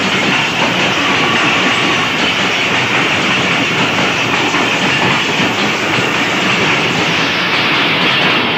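Loud, steady rumble and clatter of Pakistan Railways passenger coaches rolling past, their wheels clacking over the rail joints.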